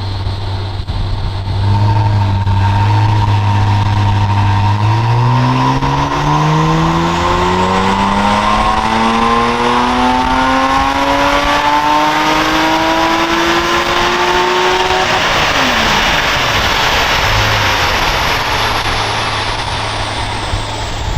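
Porsche 987 Cayman's 3.8-litre flat-six engine making a full-throttle pull on a chassis dyno during tuning. It holds steady at low revs for about five seconds, then the pitch climbs smoothly through the gear for about ten seconds, drops sharply as the throttle is lifted about fifteen seconds in, and settles back to a steady low run.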